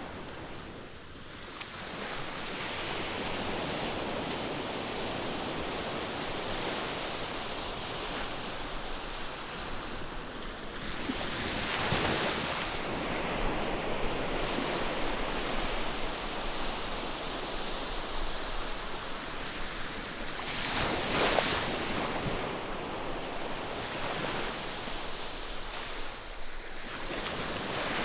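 Ocean surf: a steady rush of waves, with breakers surging louder about twelve seconds in, again about twenty-one seconds in, and near the end.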